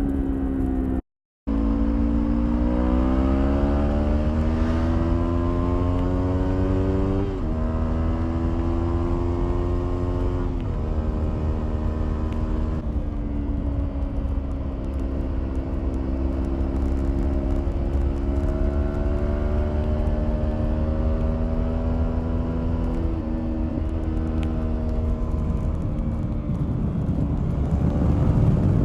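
Kawasaki Ninja 400 parallel-twin engine through an Arrow exhaust with the dB killer fitted, pulling up through the revs with sharp drops in pitch at gear changes about seven and eleven seconds in, then running at steadier revs that rise and fall gently. The sound cuts out completely for a moment about a second in.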